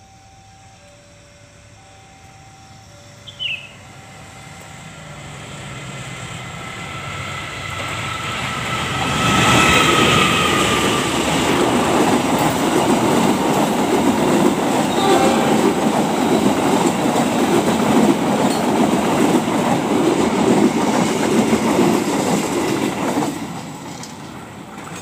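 Turangga passenger train passing at speed. A rumble builds as the locomotive approaches and peaks about ten seconds in with a tone that dips slightly in pitch as it passes. The carriages follow with a steady rhythmic clatter of wheels on rail joints, then the sound drops away suddenly as the last car goes by near the end.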